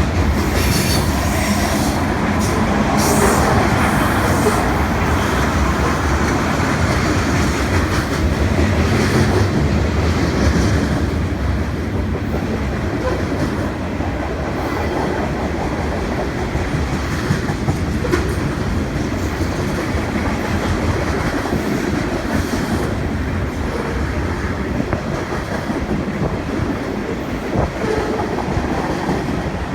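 Canadian National freight train rolling past, its cars' wheels clacking steadily over the rails and junction trackwork. There is some high wheel screeching in the first few seconds.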